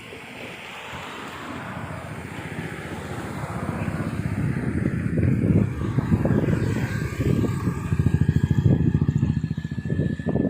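A passing vehicle, most likely a train, its rough rumble growing louder. A steady high whine joins it from about six seconds in.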